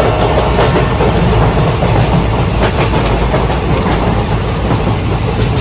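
Model train running along its layout track: a steady rolling rumble of wheels and motor, with a few sharp clicks as the wheels pass over rail joints.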